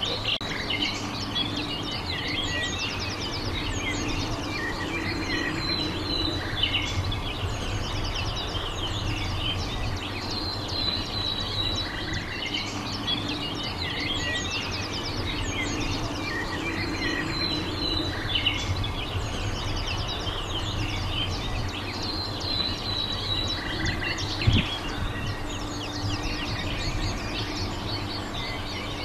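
Small birds singing, with short chirping phrases and trills repeating every few seconds over a steady low rumble. One sharp knock comes near the end.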